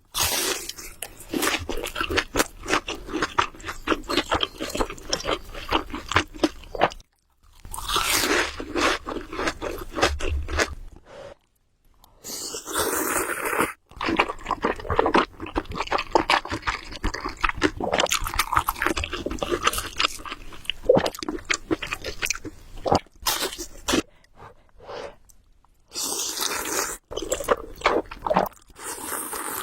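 Close-miked eating of Samyang carbonara Buldak noodles: rapid wet chewing clicks, broken by a few longer noisy stretches of slurping, with short pauses between mouthfuls.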